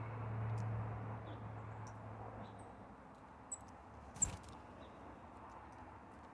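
A few faint, short high chirps of small birds, over a low engine hum that fades out about halfway through. A brief soft knock comes about four seconds in.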